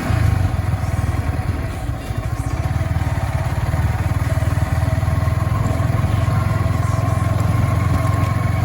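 A road vehicle's engine running steadily while on the move, a loud low drone with a fast even pulse.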